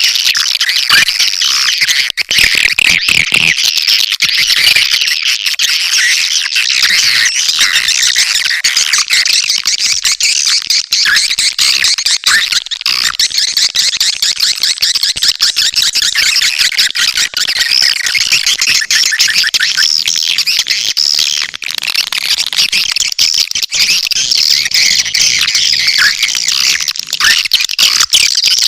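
Recorded swiftlet lure call: a dense, continuous, high-pitched twittering and chattering of many swiftlets, with quick clicks throughout. It is the kind of call played to draw edible-nest swiftlets into a nesting house.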